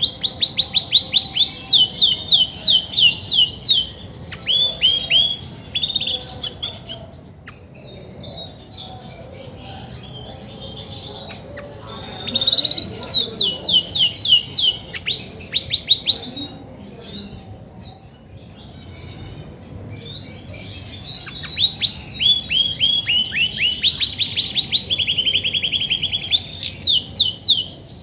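Female Belgian canary singing: long phrases of fast, repeated, high down-slurred notes in rapid trills, with a short pause about two-thirds of the way through. The breeder takes this much singing in a hen as the sign that she is ready to brood.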